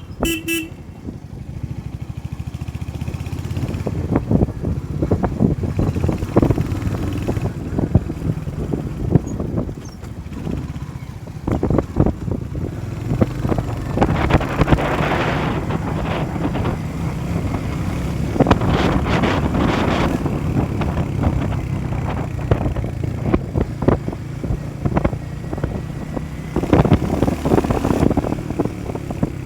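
Motorcycle engine running steadily while riding, with wind buffeting the microphone in rough gusts.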